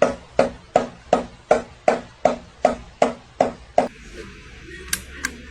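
A steady series of eleven sharp knocks or taps, about two and a half a second, stopping about four seconds in; then two sharp high clicks a quarter second apart near the end.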